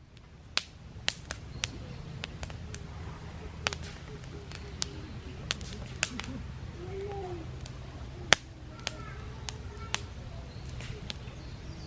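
Wood fire burning in an open fire pit, crackling with sharp, irregular pops over a low steady rumble.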